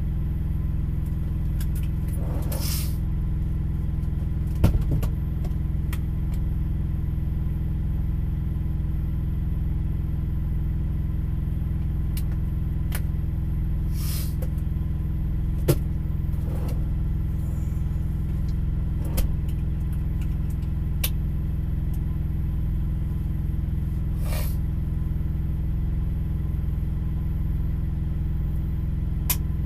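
Steady low hum of an idling vehicle engine heard through a windshield from inside the cab, with a few faint clicks and three short soft whooshes.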